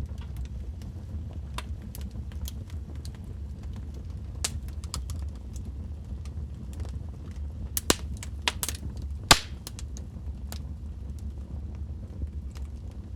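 Wood fire burning in a fireplace, with a low rumble of flames under irregular crackles and sharp pops from the burning logs. The loudest pops come about eight and nine and a half seconds in.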